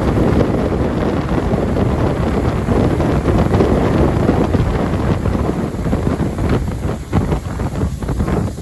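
Wind buffeting the microphone on a moving jet boat, over the engine and water rushing past the hull. It eases and turns choppier about two-thirds of the way through.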